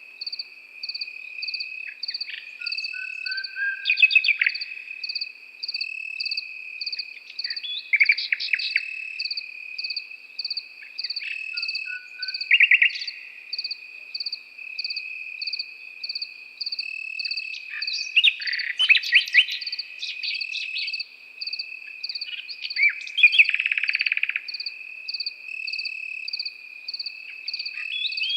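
Crickets chirping in a steady, regular pulse over a continuous high trill, with a nightingale breaking in several times with short bursts of varied song.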